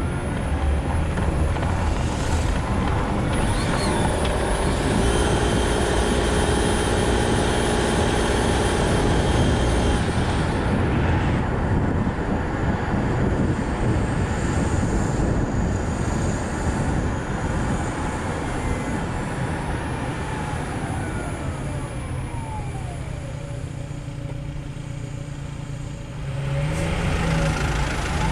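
Nissan Note e-POWER driving on a road: steady road and tyre noise, with a thin whine that rises in pitch near the start and falls again past the middle as the car slows. The noise drops for a while and grows louder again near the end.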